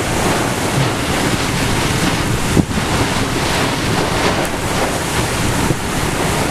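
Extreme wind in a hurricane's inner eyewall, with rain, blowing hard across the microphone as a loud, steady rush, with one short sharp hit about two and a half seconds in.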